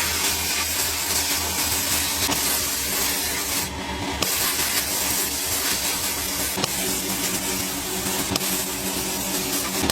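An electric power-tool motor running steadily with a hum and a hiss. It sags briefly about four seconds in, then picks up again.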